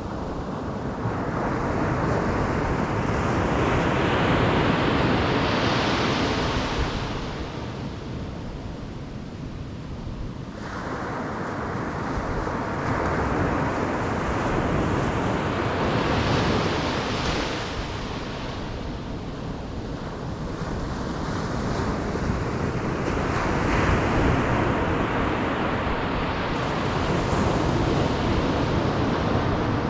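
Ocean surf: waves breaking and washing up the beach. There are about three surges, each building to a rush and then ebbing away.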